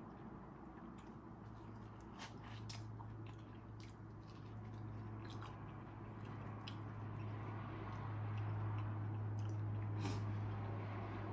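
Close-up mukbang chewing of buttery corn on the cob, with scattered wet mouth clicks and squishes of the corn in butter sauce. Under it runs a steady low hum that grows louder in the second half.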